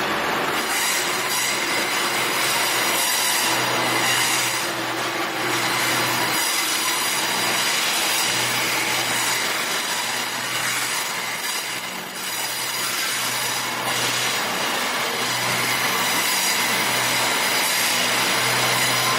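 Class 221 Super Voyager diesel tilting train running along, a steady rail rumble with a low pulsing hum underneath.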